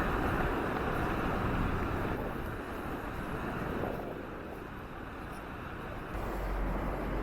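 Mountain stream rushing steadily, with a low rumble coming in about six seconds in.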